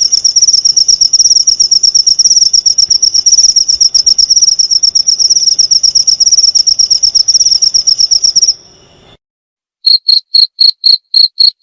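Crickets stridulating: a fast, unbroken high trill that stops about eight and a half seconds in. After a second of silence, a slower, lower chirping of about three or four chirps a second begins.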